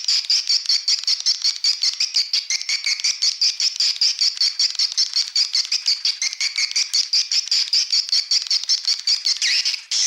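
Swiftlet lure call: a fast, even string of high chirps from swiftlets, about six or seven a second. Near the end it changes to longer calls that slide downward.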